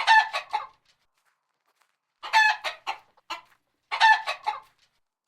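Chicken clucking in three short bouts of several quick clucks each.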